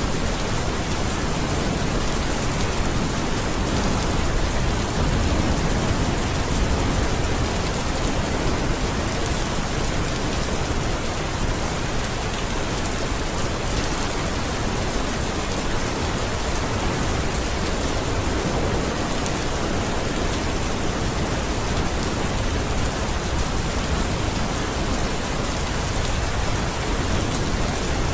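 Steady rain falling, a dense even hiss, with a low rumble in the first several seconds.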